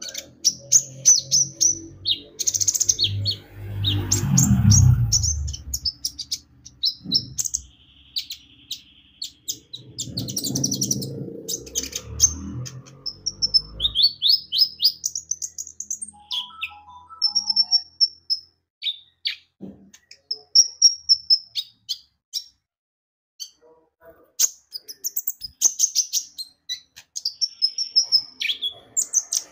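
Konin (kolibri ninja) sunbird singing: rapid, high-pitched chirps and short twittering trills in bursts with brief pauses. Two low rumbles sound under the song in the first half.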